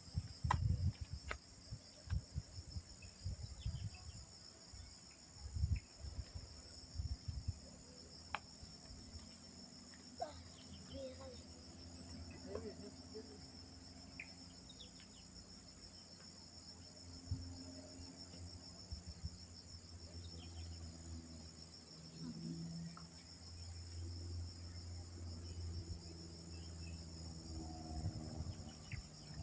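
A steady insect chorus: a continuous, finely pulsing high trill. Low thumps sound on the microphone during the first several seconds, and a low hum builds toward the end.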